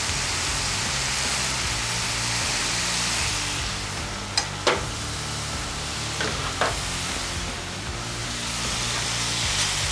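Smash burger patties, onions and shaved ham sizzling steadily on a flat-top griddle, with a few sharp clicks about halfway through. Quiet background music runs underneath.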